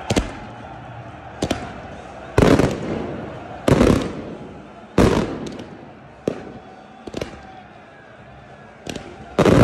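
Fireworks going off in a stadium. Three loud bangs come about a second and a half apart in the middle, each trailing off in a rolling echo, with another near the end and smaller cracks in between.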